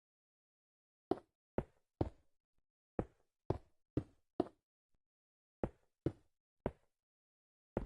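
A series of about eleven sharp knocks, mostly about half a second apart, with short pauses between the groups.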